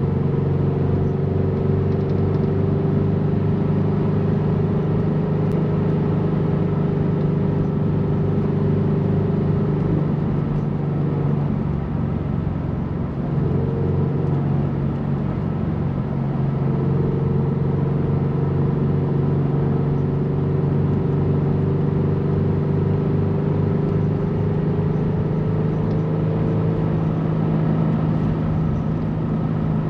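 Turbocharged Scion FR-S's flat-four engine running steadily while driving, heard from inside the car. For a few seconds midway the engine note drops away and breaks up, then it returns and holds steady again.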